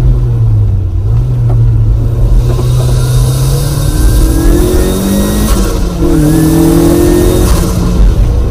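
Turbocharged 1996 Mazda MX-5 engine heard from inside the open cabin, working hard through a slow corner and then accelerating up through the gears. The note climbs, drops at about four seconds, and resets at a gear change about six seconds in before climbing again, with a faint rising whine over it and wind and road hiss.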